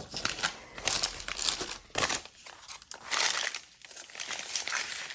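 Paper rustling and crinkling in several short bursts as sewn paper strips are fitted over the journal's signatures.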